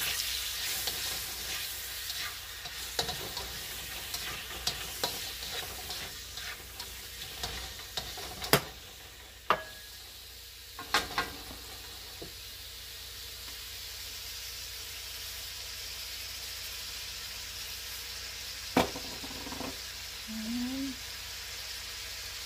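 Raw shrimp sizzling in hot oil in a wok as they are stirred with a plastic spatula. A few sharp clacks of utensils on the pan come in the middle and near the end, and the frying hiss settles to a steadier level later on.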